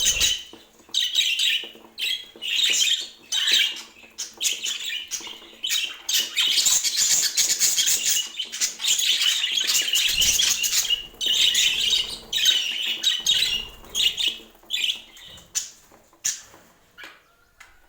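Pet budgerigars chattering and warbling in irregular bursts mixed with sharp clicks, growing sparser near the end.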